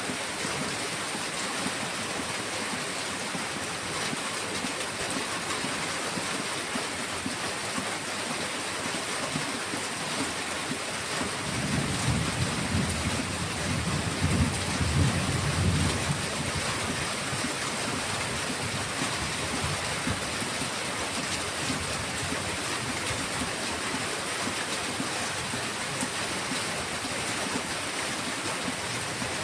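Heavy rain falling steadily, with a low roll of thunder rumbling for about five seconds midway through.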